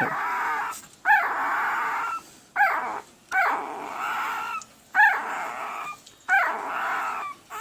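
A one-week-old Pembroke Welsh Corgi puppy crying over and over: about six cries, each opening with a sharp high squeal that trails into a raspy wail about a second long.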